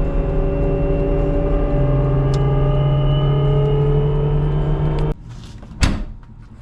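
Vehicle engine running steadily, its tone shifting down slightly about two seconds in. The sound stops abruptly about five seconds in, followed by one sharp knock.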